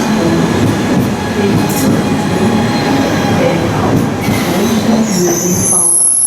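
Train rolling along the track with a steady rumble. Near the end a thin, high-pitched wheel squeal sets in and holds.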